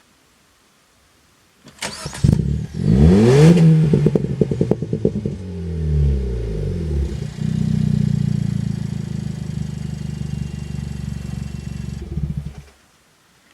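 Suzuki Swift Sport ZC33S's 1.4-litre turbo four-cylinder starting through an aftermarket sports muffler: a short crank, a high rev flare on catching that rises and falls, then settling to a steady idle, which cuts off suddenly near the end.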